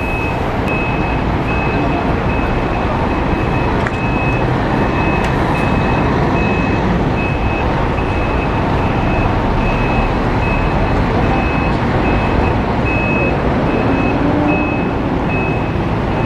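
Reversing alarm of a Neobus New Road N10 380 coach on a Scania chassis, sounding a steady run of evenly spaced high beeps over the running diesel engine.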